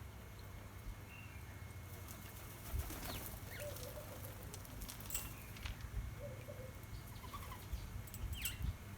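Sparrows and weavers at a seed feeder: a few short, falling chirps and wing flutters, with several soft thumps from around three seconds in, over a low steady rumble.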